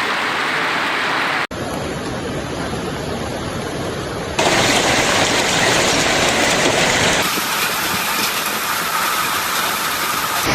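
Heavy rain and hail pouring down in a dense, steady hiss. The sound shifts abruptly about a second and a half in, again near the middle, and again about two-thirds through, as separate storm recordings are cut together.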